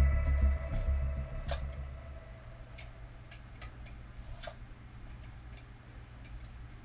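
Background music fading out over the first two seconds, then faint, irregular small clicks and ticks.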